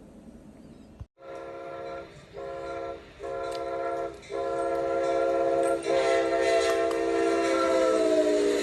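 Amtrak P42DC locomotive's multi-tone air horn sounding three shorter blasts and then one long blast held about four seconds, its pitch dropping near the end as the train passes. The rumble of the train's wheels on the rails grows louder beneath the long blast.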